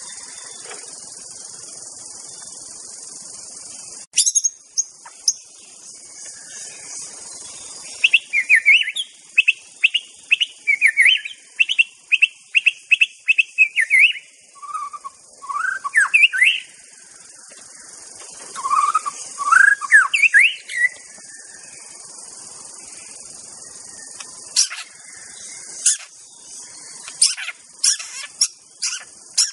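White-rumped shama singing: a fast run of sharp, repeated high notes, then rich slurred whistles, and a string of sharp clicking notes near the end. A steady high hiss runs underneath, and the first few seconds hold little else.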